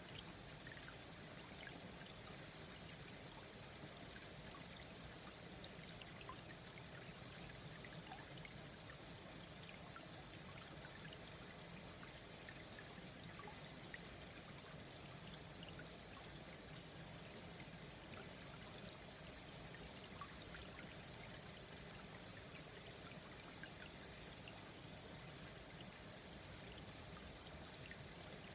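A small, slow-flowing stream babbling and trickling steadily, with faint scattered drips and splashes.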